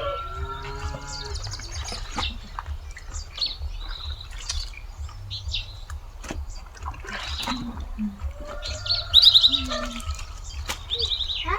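Birds chirping and trilling over and over, loudest about nine seconds in, with a few lower animal calls near the start and again later.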